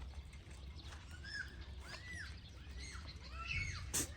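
Birds calling: a series of short chirps that rise and fall in pitch, about one a second, over a low background hum, with a single sharp click near the end.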